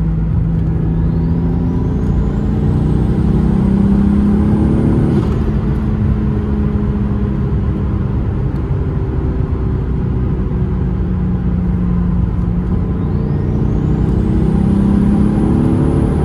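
Turbocharged 12-valve VR6 engine of a VW Corrado heard from inside the cabin, pulling hard twice under acceleration with a high turbo whistle climbing in pitch. Each pull cuts off suddenly, about five seconds in and again near the end, as at a gear change.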